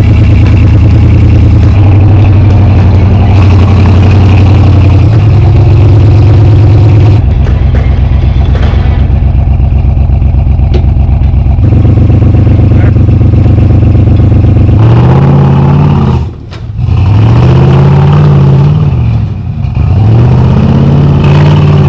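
Off-road truck engine working hard under load, held at steady revs for a while, then revved up and down three times near the end as the truck climbs over trail obstacles.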